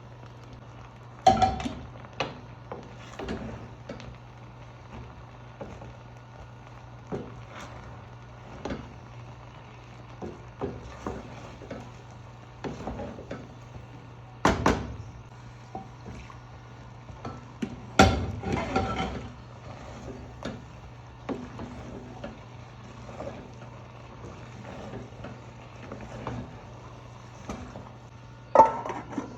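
Kitchen utensils and dishes clattering: a string of scattered knocks and clinks, with a few sharper clanks, over a steady low hum.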